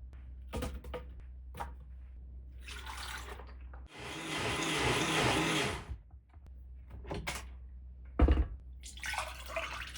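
Water running from a kitchen tap for about two seconds, among scattered clicks and a sharp knock of things being handled at the sink, over a steady low hum.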